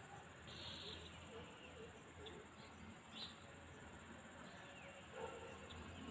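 Quiet open-field ambience: a faint low rumble under a steady high insect-like drone, with a few short, faint bird chirps scattered through.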